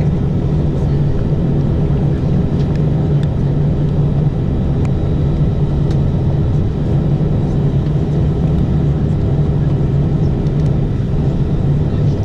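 Airbus A319 airliner's engines running steadily, a loud low hum and rumble that holds level without spooling up.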